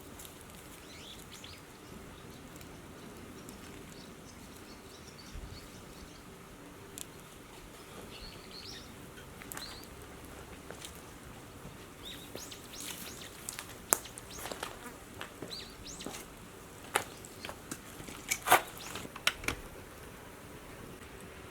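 A wood fire crackling, with sharp pops and cracks coming thick in the second half; small birds chirp faintly in the background.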